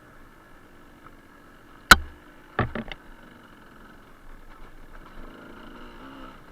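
Suzuki TS125R's two-stroke single running low and quiet, with one sharp, loud knock about two seconds in and a quick run of three or four knocks just after, as the bike jolts over the rocky track.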